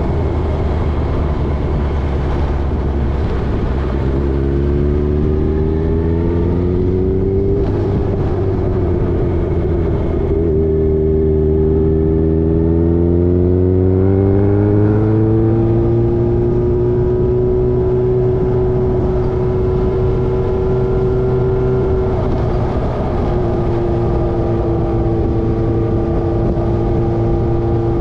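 Motorcycle engine under way, its pitch rising as it accelerates, with a gear change about seven and a half seconds in, then rising again and holding a steady pitch at cruising speed.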